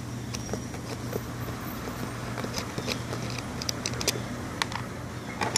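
Scattered light clicks and scrapes of pliers and small parts being handled while prying an old potentiometer off a circuit board, the clicks coming more often toward the end, over a steady low hum.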